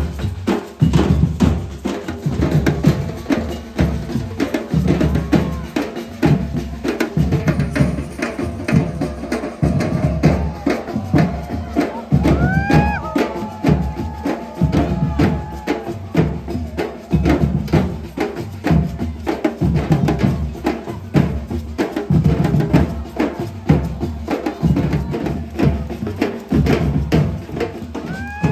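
Music driven by drums and percussion, with heavy low drum beats in a steady rhythm and a few short pitched glides about halfway through.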